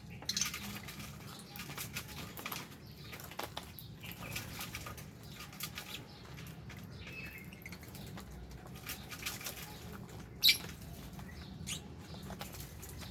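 Lovebirds and budgies in an aviary: fluttering wings and scattered scratchy clicks and rustles, with one sharp, loud burst about ten seconds in.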